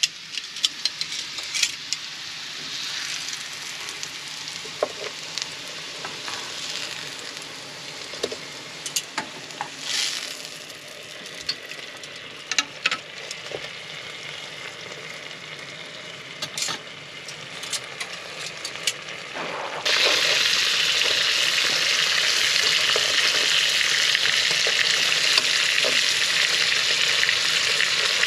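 Daikon radish steaks frying in butter in a pan: a steady sizzle with scattered clicks and taps of a utensil against the pan. About twenty seconds in, the sizzle suddenly becomes much louder and more even.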